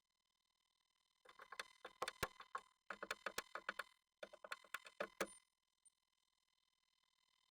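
Japanese tit tapping and scratching against the wooden walls of a nest box, heard up close from inside. It comes in three bursts of rapid sharp taps, each lasting about a second, over a faint steady electronic whine.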